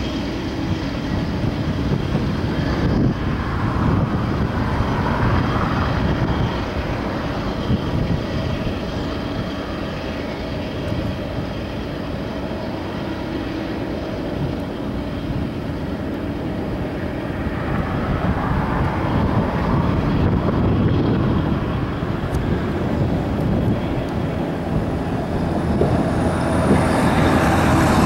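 Loaded Union Pacific coal train rolling past: a steady rumble of diesel locomotive and rail cars on the track. It grows louder in the second half as a locomotive draws near.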